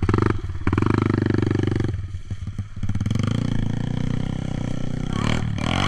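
Kawasaki KLX140 dirt bike's single-cylinder four-stroke engine, fitted with a Big Gun aftermarket exhaust, revving hard about a second in, easing off briefly, then running on steadily, with the pitch sweeping near the end.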